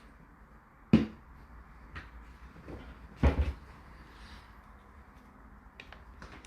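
Hard knocks and clicks as items are set into a Whirlpool dishwasher's racks: a sharp knock about a second in, another just over three seconds in, and lighter clicks between them and near the end.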